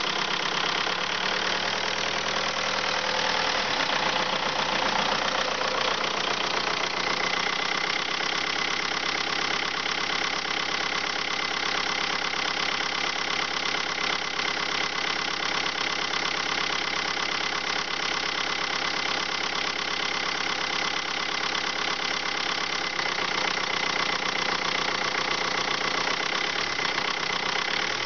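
Engine from a 2003 VW Jetta running on a test; its speed shifts in the first few seconds, then it holds a steady even run.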